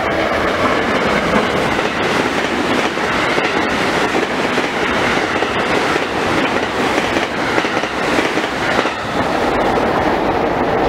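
Electric multiple-unit train passing at high speed, a loud steady rush of wheels and air with rapid clicks of the wheels over rail joints.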